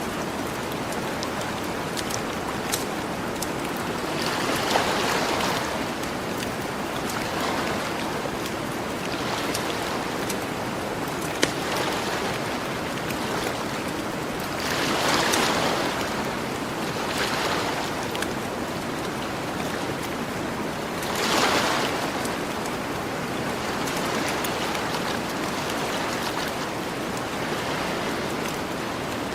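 Gentle ocean surf: a steady wash of water that swells as waves break and run up the shore every few seconds, strongest three times. Now and then a sharp pop from a crackling campfire.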